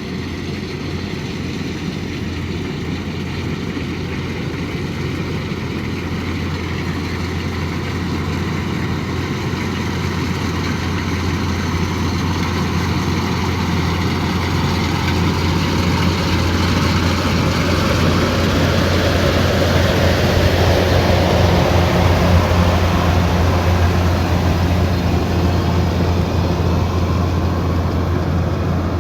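Kubota DC108X combine harvester's diesel engine running steadily under harvesting load, with a low hum and a broad machinery noise that grow louder over the first two thirds and ease slightly near the end.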